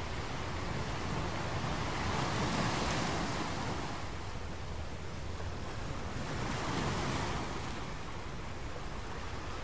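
Recorded ocean waves washing in as a steady hiss, with one wave swelling and falling away about two to three seconds in and another about seven seconds in.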